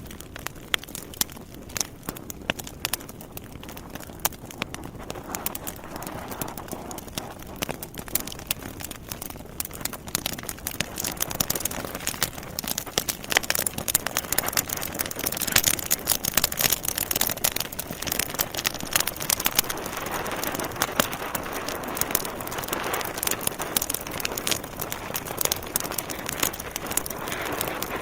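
Wood fire crackling in a fireplace: burning logs snapping and popping over a steady rush of flame, the pops coming thicker after about ten seconds.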